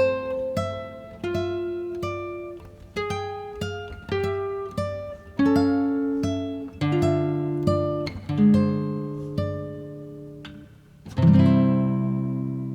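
Background music: a solo acoustic guitar picking a slow melody of single notes and chords, ending on a chord about eleven seconds in that rings out and fades.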